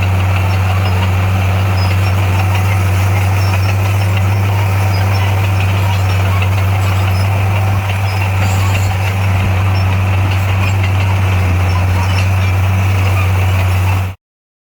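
Heavy equipment's diesel engine running steadily at an even, low pitch. The sound cuts out abruptly for a moment near the end.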